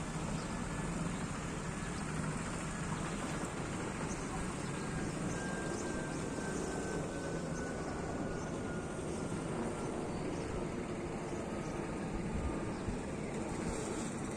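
Steady rush of a Boeing 737 MAX 8's CFM LEAP-1B engines and airflow heard from inside the cabin, with a faint whine sliding slowly down in pitch.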